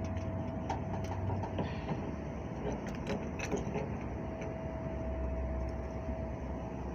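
Steady machine hum with a constant high whine, and a few light clicks and taps.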